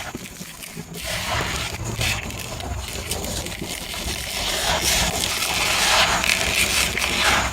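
Dry, grainy sand-cement crumbling and crunching: a continuous gritty crackle with swells of louder crunching, growing louder in the second half.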